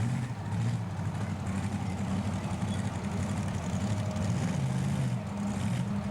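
Two-wheel-drive funny car's 1400 hp race engine running at a steady idle, its pitch wavering slightly.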